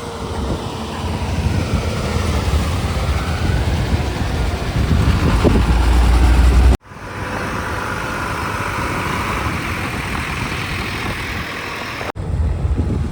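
Heavy diesel engine running at a loading site, a low rumble that builds louder, then cuts off abruptly about halfway through. It resumes after a split second and runs steadily, with another brief break near the end.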